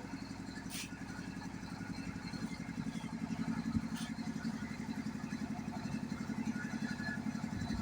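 An engine running steadily at idle with an even, fast low pulse, and two short clicks about a second in and about four seconds in.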